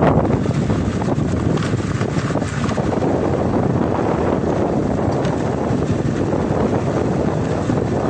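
Wind buffeting the microphone of a moving motorcycle: a steady, loud rush.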